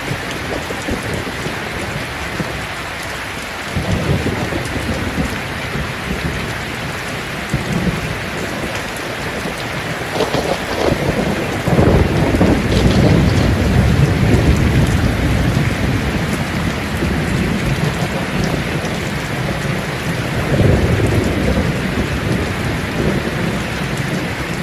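Steady rain falling on leaves, with low rolling thunder rumbling in under it: a first roll about 4 s in, the longest and loudest from about 10 to 15 s, and another near 21 s.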